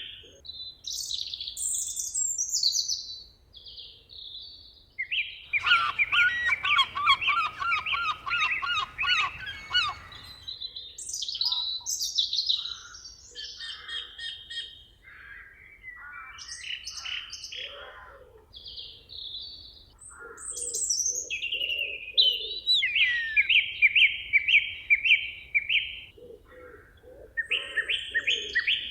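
Several songbirds singing together in a forest, trading repeated phrases of quick high notes. A long, fast twittering song runs from about 5 to 10 seconds in, and a low pulsed note repeats through the second half.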